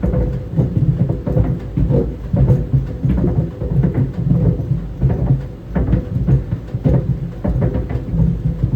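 Tennis balls tumbling in a running clothes dryer, thudding irregularly against the drum over its steady low rumble and hum.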